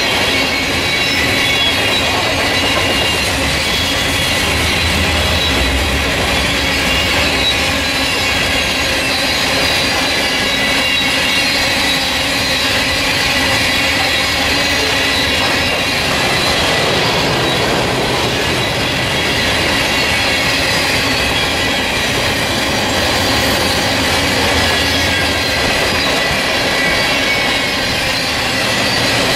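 Covered hopper cars of a freight train rolling past, the wheels running with a steady rumble and clicking over the rail joints. Several thin high-pitched squeals waver on top throughout as the wheels squeal on the rail.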